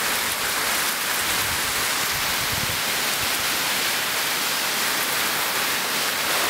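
Torrential tropical rain squall pouring down on trees and garden foliage: a steady, dense hiss of heavy rain coming down in torrents.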